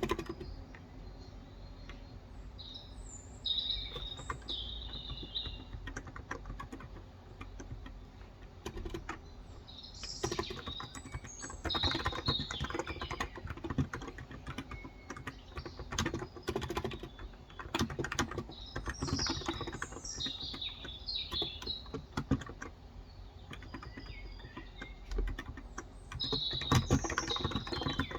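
Typing on a Cox Endeavour tenkeyless keyboard with 35 g electrostatic capacitive switches, in uneven runs of keystrokes. Birds chirp outside in short high bursts several times over the typing.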